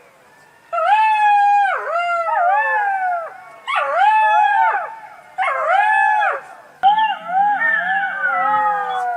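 A fox calling in a run of about five drawn-out, wavering whining cries. Each lasts a second or so, rising and then falling in pitch, and some cries overlap as if more than one animal is calling.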